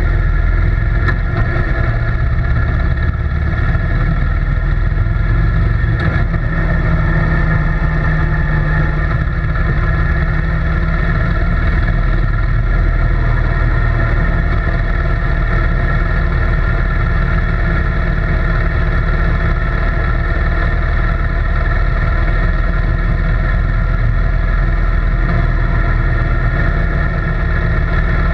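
An engine running steadily at a constant speed, a loud, even drone with a deep rumble that does not change.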